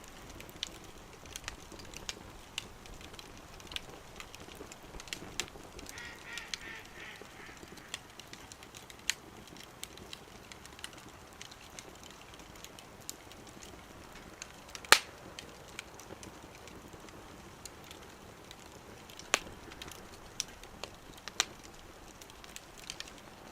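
Wood fire crackling in a small wood stove, with scattered sharp pops; the loudest pop comes about fifteen seconds in.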